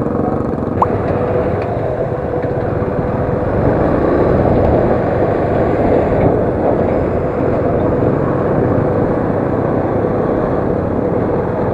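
Motorcycle on the move, its engine running steadily under heavy wind rush, a little louder a few seconds in.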